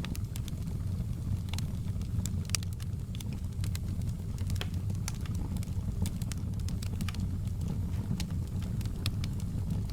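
Fireplace fire crackling: irregular sharp pops and snaps of burning wood over a steady low rumble.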